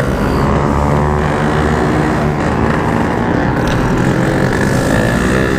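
Yamaha RX-King's ported single-cylinder two-stroke engine running hard under way. Its pitch drops and climbs as the revs change, rising again near the end.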